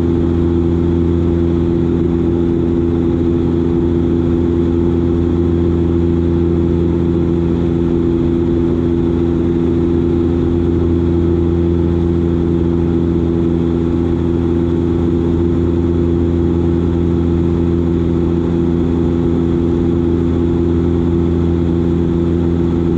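Dash 8 Q400 turboprop's Pratt & Whitney PW150A engine and six-blade propeller running steadily in flight: a loud, even drone with several steady low hums that hold their pitch.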